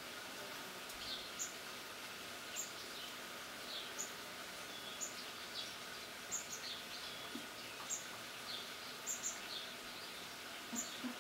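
Small birds chirping, short high notes repeating irregularly about every half second to second and a half, over a steady outdoor hiss.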